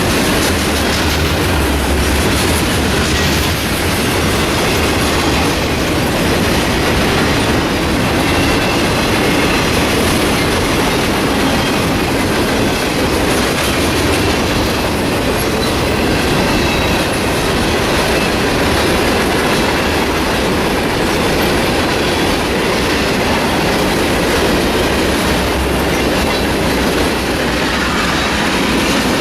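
A long freight train's cars rolling past steadily, their wheels clacking over the rail joints with a continuous rumble and rattle.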